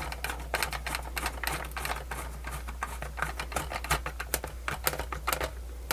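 A screwdriver driving small screws into a plastic radio case: a quick, irregular run of small clicks and scratches, over a steady low hum.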